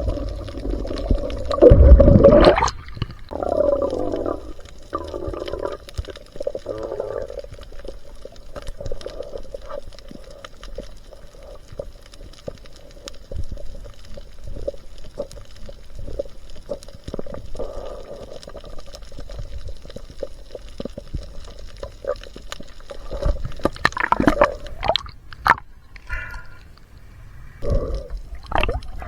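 Water splashing and gurgling, with scattered clicks and knocks; a loud rush of water about two seconds in and another burst near the end.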